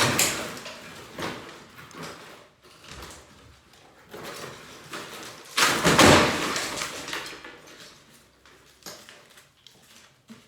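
Demolition work: a loud crash at the start and a louder one about six seconds in, each trailing off in scraping and clatter, with smaller knocks between.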